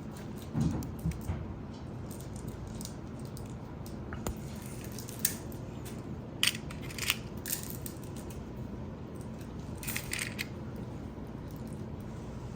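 Hand work on small wiring: a handful of short, sharp clicks and snips spread out, with some light rustling, over steady low room noise.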